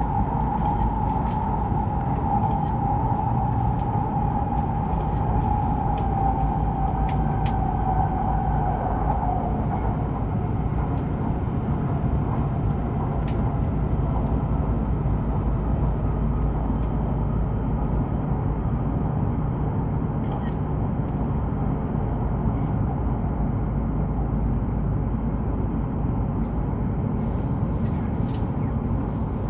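Shinkansen train running, heard from inside the passenger cabin: a steady rumble with a whine that slowly falls in pitch over the first nine seconds or so, and a few faint clicks.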